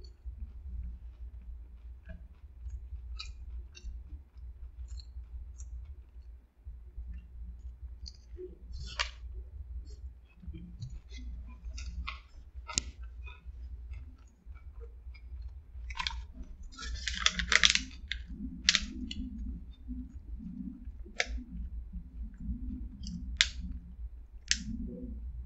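Chewing a mouthful of burger topped with sauce and crushed potato chips, with scattered clicks and crackles of a paper napkin and a plastic dip cup being handled; a louder crinkling rustle comes about two-thirds of the way through. A steady low hum runs underneath.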